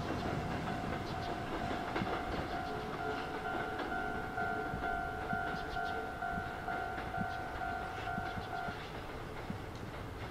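Sanyo Electric Railway 3000 series train running over the points and rail joints with a low rumble and scattered clicks, while a level crossing alarm rings in a steady pulsing tone and stops about nine seconds in.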